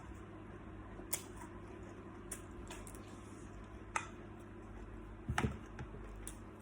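Scattered sharp clicks and crackles of salt-baked shrimp shells being peeled and broken, a second or so apart, with a cluster of louder cracks and a dull knock about five seconds in.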